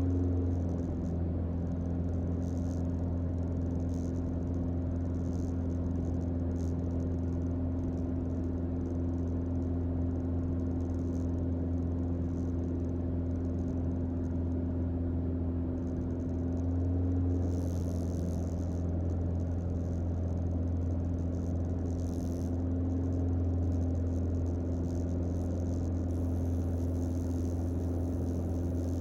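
Steady cockpit drone of a Mooney M20J's four-cylinder Lycoming engine and propeller on final approach. The pitch shifts slightly, with a small rise in level, about 17 seconds in.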